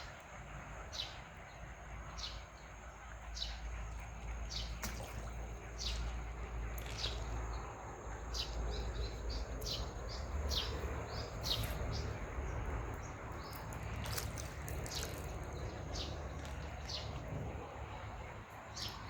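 Birds calling with short, sharp, falling chirps, repeating about once a second and sometimes in quick clusters, over a steady high-pitched whine and a low background rumble.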